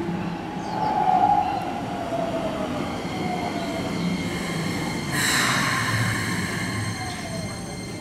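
Keikyu electric train braking into a station: its motor whine falls steadily in pitch as it slows, over the rumble of the cars. About five seconds in, a sudden louder burst of brake noise comes in.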